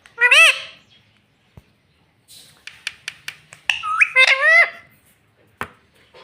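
Pet parrot calling: a short squawk just after the start, a run of short clicking sounds, then a quick string of warbling calls about four seconds in, with a sharp tap near the end.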